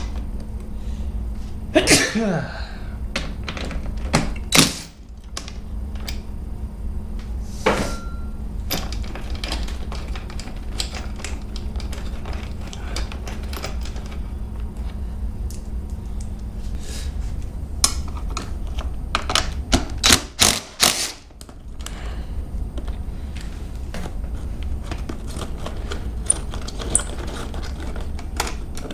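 Scattered clicks, knocks and clatter of hand tools and plastic body panels being unbolted and pulled off a dirt bike, with a few louder knocks, over a steady low hum.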